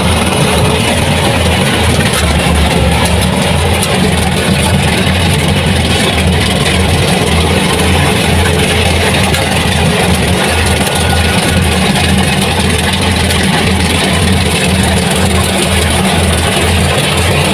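Heavy farm machine's engine running steadily and loudly, with a fast throbbing pulse in its low note.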